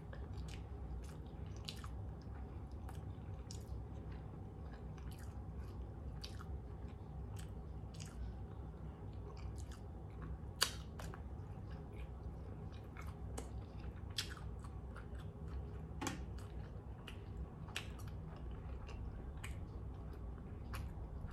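A person chewing mouthfuls of hot dog in a soft bun, with many short wet mouth clicks and smacks and one sharper click about halfway through, over a steady low hum.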